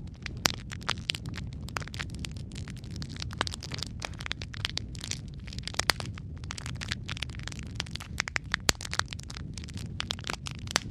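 Wood fire crackling in a fireplace: a dense, irregular run of small pops and snaps over a steady low rumble, with a few sharper, louder pops.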